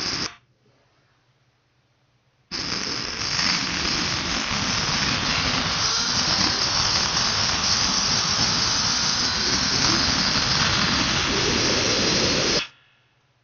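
Loud, harsh, unpitched roar of a car engine and exhaust at high revs, played back from a video, starting abruptly about two and a half seconds in and cutting off sharply near the end.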